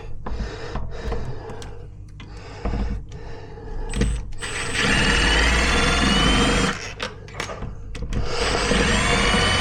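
Cordless drill-driver run twice, about two seconds each, its motor whine rising slightly as it drives screws on a window handle; a few knocks and handling clicks come before the first run.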